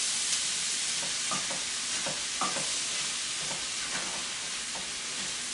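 Dry orzo pasta sizzling in bacon and sausage grease in a pot as it is stirred to coat it, a steady hiss slowly easing, with faint scrapes and taps of the spoon.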